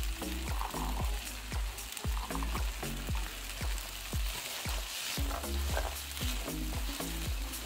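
Rice, vegetable and black bean mixture sizzling in a hot sauté pan while a silicone spatula stirs and scrapes through it. Background music with a steady low beat plays underneath.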